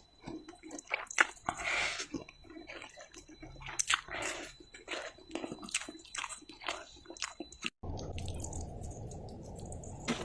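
Close-miked chewing of mi goreng fried noodles with egg: a run of wet smacks and sharp mouth clicks. About three-quarters of the way through the chewing cuts off abruptly, giving way to a steady low hiss.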